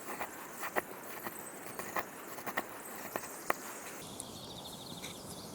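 Wavy-edged pocketknife blade cutting along a small wooden stick: a string of irregular sharp clicks and scrapes as the edge catches and bites into the wood, which thin out about four seconds in.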